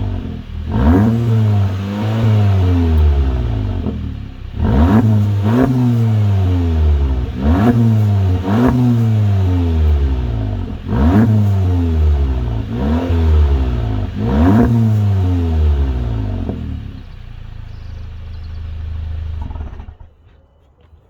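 2019 VW Golf GTI's 2.0-litre turbo four-cylinder revved repeatedly through a Milltek cat-back exhaust with the resonator deleted: about eight quick blips of the throttle, each rising sharply and falling back. Near the end it settles to a steady idle and then falls quiet.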